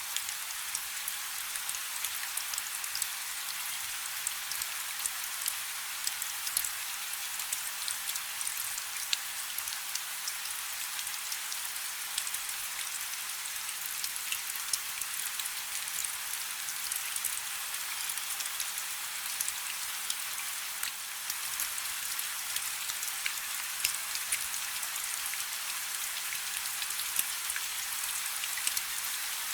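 Rain falling on a river: a steady hiss of rainfall on the water, dotted with many small drop ticks.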